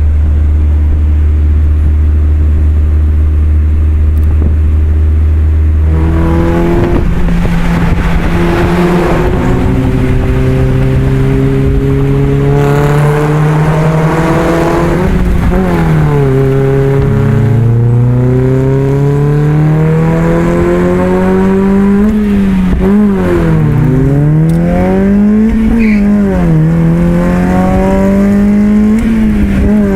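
Mazda Miata NB's four-cylinder engine through a new ISR 2.5-inch straight-through stainless exhaust, driving, heard from inside the car. A steady low drone for about six seconds, then the note climbs in pitch under acceleration and drops sharply several times before climbing again.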